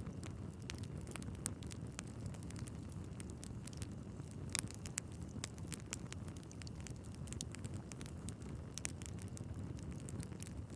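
Wood fire burning in a fireplace: a steady low rumble of flames with irregular sharp crackles and pops from the logs, a louder pop about halfway through.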